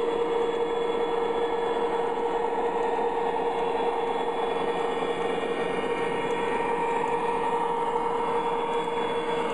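MTH O scale model diesel locomotives (SD40-2 and SD45 lashup) running on the track with a tank-car train: a steady electric hum with the rolling noise of wheels on rail.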